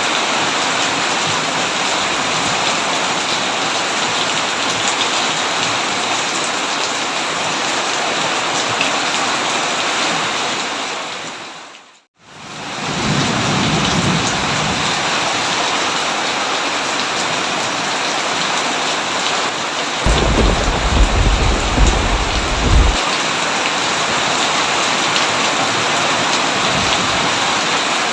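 Heavy rain pouring steadily, with low rolling thunder: a rumble just after the twelve-second mark and a louder one about twenty seconds in lasting some three seconds. About twelve seconds in the rain fades out to silence and straight back in.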